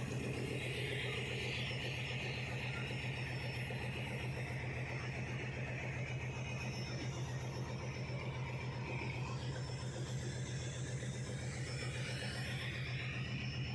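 A steady, low, fast-pulsing engine hum that runs without change, with a soft hiss above it.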